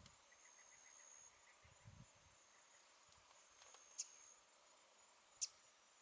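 Near silence: faint bush ambience with a high, steady insect buzz that stops and starts, and two sharp ticks about four and five and a half seconds in.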